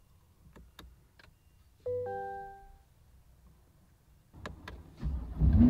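A few soft button clicks and a short multi-note dash chime from a Chevrolet C8 Corvette about two seconds in, then near the end the car's V8 cranks and fires, jumping suddenly to a loud low rumble.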